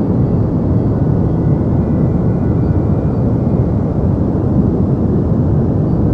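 Deep white noise for sleep: a continuous, even hiss weighted heavily toward the low end, so it sounds like a soft low rumble more than a bright hiss. It stays level and unchanging throughout.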